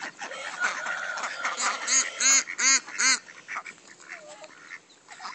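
A goose with day-old ducklings calling. Dense high-pitched peeping runs through the first half, and about two seconds in come four short, arched calls in quick succession.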